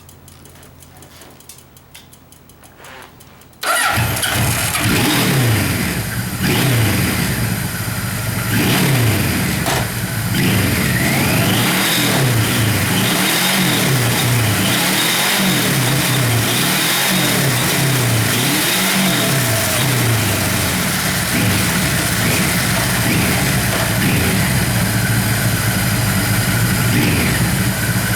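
Kawasaki Z1000 inline-four motorcycle engine starting about four seconds in, catching at once and running loud. It is revved again and again, the pitch rising and falling, then settles to a steadier run near the end.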